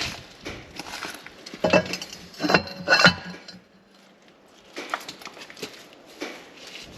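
Metal tools and sockets clinking and clattering as they are handled and knocked together, loudest in a quick cluster of clanks a couple of seconds in, then a few lighter taps.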